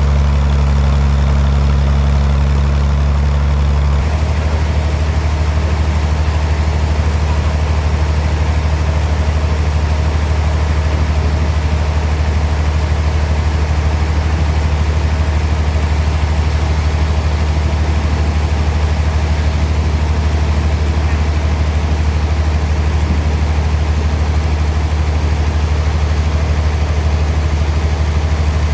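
Sawmill bandsaw machinery running with a loud, steady low hum; about four seconds in the hum changes slightly in pitch and then holds steady.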